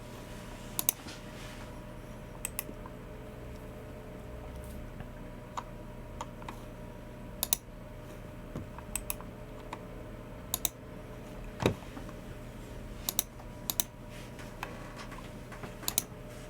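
Sparse, irregular keystrokes on a Logicool MX Keys Mini keyboard and clicks of a Logicool G304 mouse, about a dozen sharp clicks, several of them in quick pairs, over a faint steady hum.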